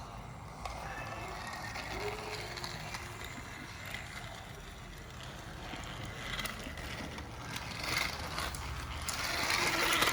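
Battery-powered TrackMaster Turbo Speed Percy toy engine running along its plastic track: a steady motor whir with scattered clicks of the wheels on the track, getting louder near the end.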